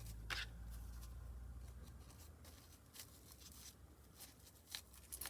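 Faint handling sounds of paper kitchen towel being stuffed into a small hollow ornament: a brief rustle near the start and a few light taps later, over a low steady hum.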